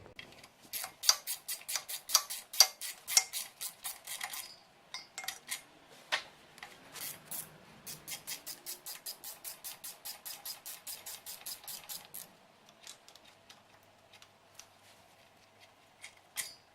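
Ratchet wrench clicking in two long runs of about four to five clicks a second, with a few separate metal knocks between them, as a rust-seized bolt is worked loose on a small-block Chevy 350.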